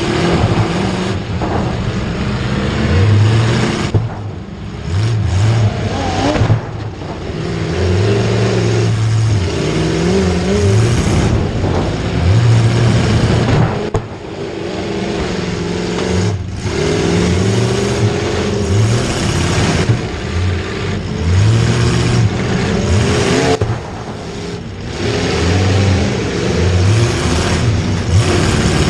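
Motor vehicle engines revving up and down over and over, pitch climbing and dropping every second or two, like racing vehicles accelerating and backing off.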